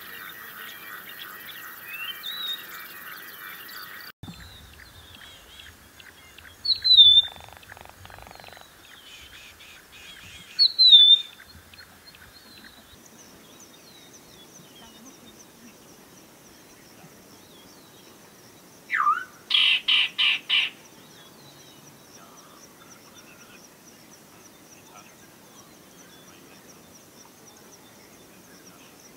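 Wild birds calling: two sharp downward-slurred chirps about four seconds apart, then a rising note followed by a quick run of five loud notes. A steady high-pitched drone sits underneath throughout.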